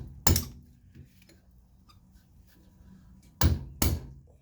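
Hammer blows on a drift, driving at a shaft seized in a suspension lower control arm bushing: one strike just after the start, then two quick strikes about three and a half seconds in, each a sharp metallic hit that rings briefly.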